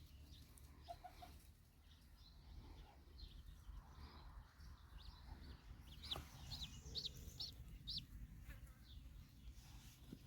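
Ducklings peeping: short, high-pitched cheeps repeated again and again, faint at first and clearer from about halfway through.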